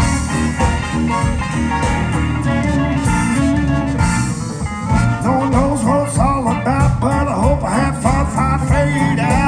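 Live blues band playing an instrumental break between verses, with a guitar lead over the band. In the second half the lead plays a quick run of repeated bent notes.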